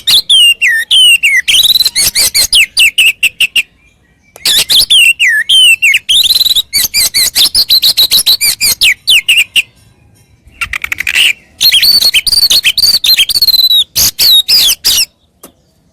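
Oriental magpie-robin (kacer) singing in three fast bursts, each mixing slurred whistles with rapid runs of sharp ticking notes, with short pauses between them.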